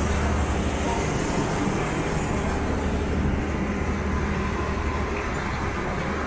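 Street traffic noise with a steady low engine rumble from a nearby motor vehicle, easing off slightly toward the end.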